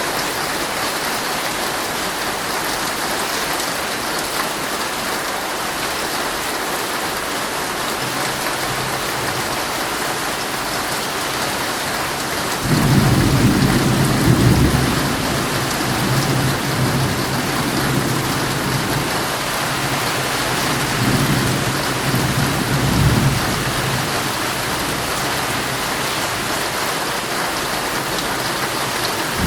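Heavy rain pattering steadily on a tent. About a third of the way in a low roll of thunder begins, swelling and fading in waves.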